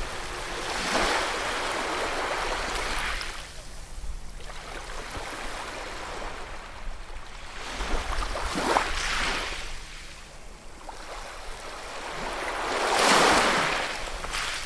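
Ocean waves breaking and washing on shore, three surges swelling and fading, the loudest near the end.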